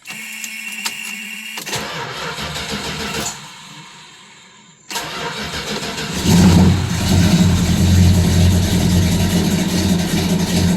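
1970 Dodge Coronet 500 engine being started cold: the starter turns it over and it catches about five seconds in, then runs loud and steady from about six seconds.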